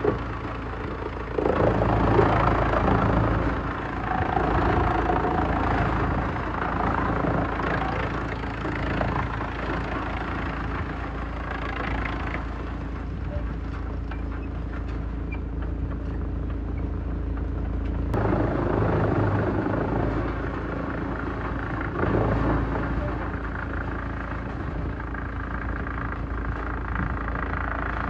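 Heavy-duty industrial wood shredder running steadily with a constant low mechanical hum, rising into louder, noisier surges several times as wood goes through it.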